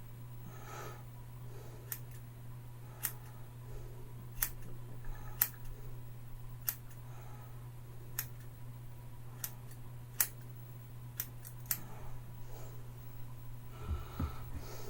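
Scissors snipping hair: a series of sharp, single snips at an irregular pace, roughly one a second.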